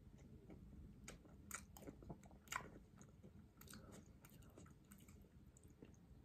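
Faint chewing of a crispy-coated plant-based chicken nugget: a scatter of small, irregular crunches.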